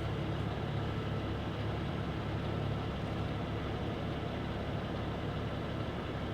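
Semi truck's diesel engine running steadily at low revs, a constant low drone.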